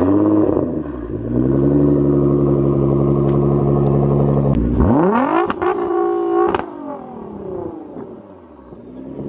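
Turbocharged car engine revved and held at high revs for about three seconds, dropping briefly, revved up again, then falling back to idle near the end.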